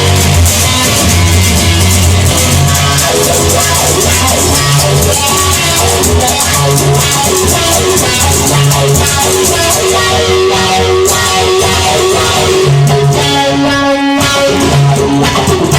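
Instrumental passage of a rock song: guitar with bass and drum kit, no singing. The band drops out briefly near the end before coming back in.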